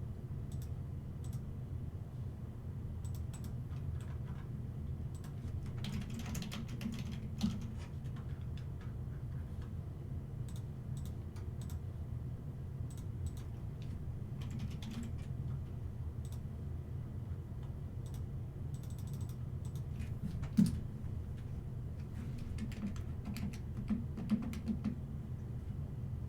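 Computer keyboard typing in short, irregular bursts of clicks, over a steady low hum.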